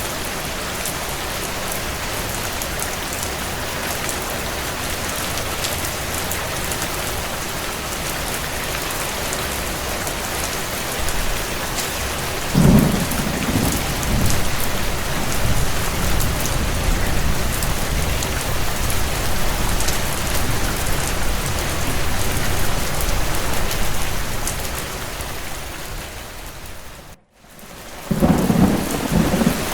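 Steady rain with thunder. Partway through, a low rumble builds into a sudden thunderclap that rolls on for several seconds and fades. The sound cuts out for a moment near the end, then a second thunderclap comes in.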